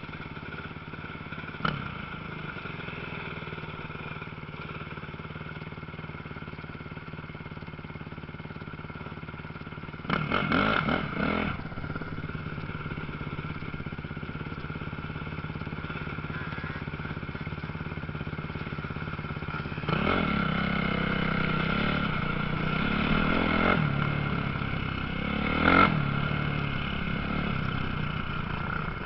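Motocross bikes running, with engines revving louder as bikes come near about ten seconds in and again through the last third.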